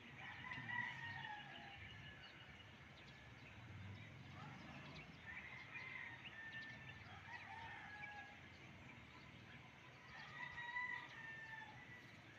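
Faint, drawn-out bird calls, three of them a few seconds apart, over low steady background noise.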